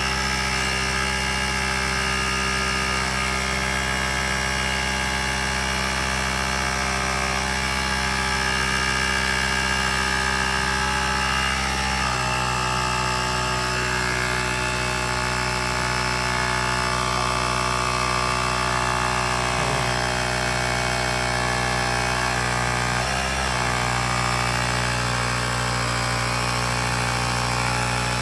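Bergmann portable tyre inflator's small electric compressor running steadily, its pitch shifting slightly about twelve seconds in and dipping briefly near twenty-three seconds.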